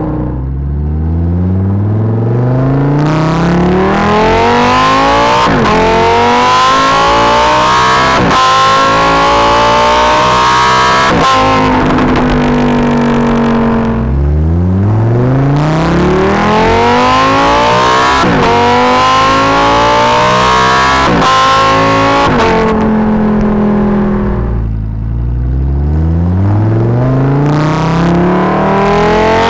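Lamborghini Huracán EVO RWD's naturally aspirated 5.2-litre V10, heard right at the exhaust, accelerating hard three times. Each time the revs climb steeply and fall back sharply at each upshift, and between runs there is a few seconds of a steadier, lower note.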